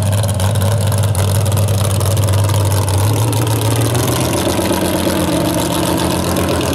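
Loud engine of an off-road vehicle running hard in a mud drag. It holds a low, steady note, then climbs in pitch about three seconds in as it revs higher, over a spread of rushing noise.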